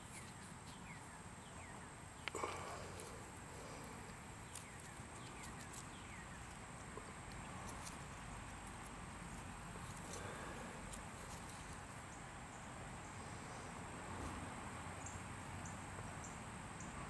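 Quiet summer garden ambience: a steady high-pitched insect trill runs throughout, with a few faint short chirps. There is a single soft knock about two seconds in.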